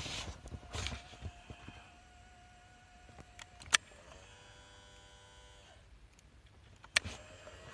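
Handling knocks, then a sharp click of a key on a Sanyo Micro-Pack 35 tape recorder, followed by about two seconds of its small tape-drive motor whirring with a steady tone before it stops. Another sharp key click near the end. The tape transport runs, but the recorder gives no playback sound.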